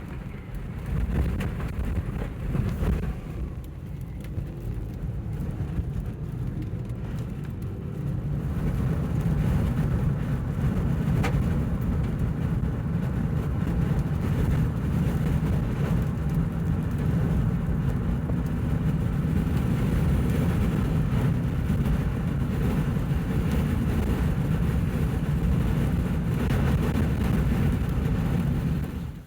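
Strong wind buffeting the microphone: a loud, steady low rumble that grows louder about a quarter of the way in and cuts off abruptly at the end.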